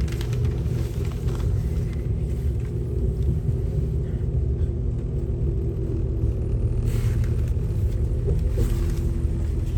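Passenger train running along the track, heard from inside the carriage: a steady low rumble with a constant hum.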